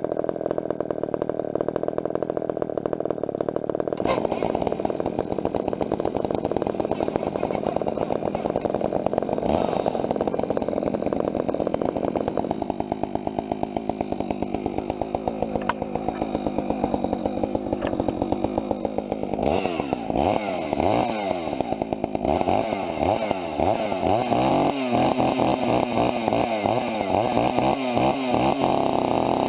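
Two-stroke chainsaw running without a break. About two-thirds of the way through, its engine pitch starts rising and falling over and over.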